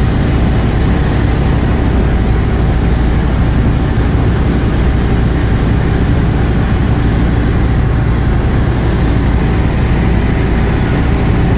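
Light aircraft's piston engine and propeller running with a steady, even drone.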